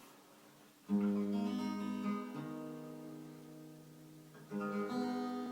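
Acoustic guitar introduction: a chord strummed about a second in and left to ring and fade, then a second chord strummed near the end.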